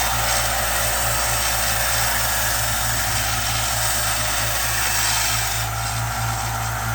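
Harbor Freight electric sander running steadily with a low motor hum, its abrasive grinding against a workpiece held to it.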